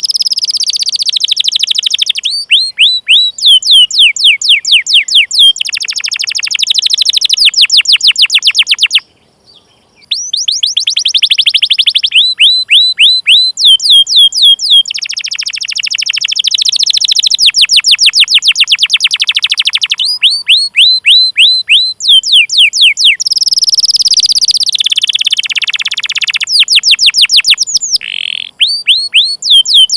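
Domestic canary singing: fast runs of repeated down-sweeping 'cuit cuit' chirp notes alternating with denser trilled rolls, with a pause of about a second about nine seconds in.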